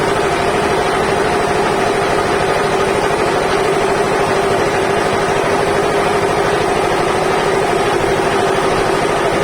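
Sawmill band saw machinery running steadily: a continuous mechanical hum with a held whine, unchanging in pitch and level.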